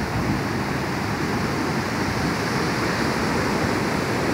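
Ocean surf rushing steadily on the beach, a continuous even wash of breaking waves.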